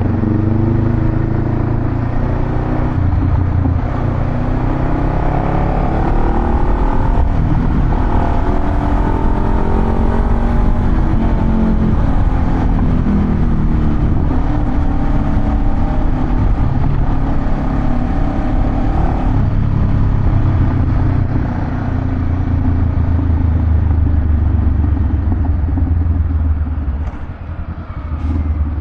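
Honda Rebel 500's parallel-twin engine running through a Vance & Hines exhaust, its engine speed rising and falling through the middle, then steadier, with a brief dip in level near the end.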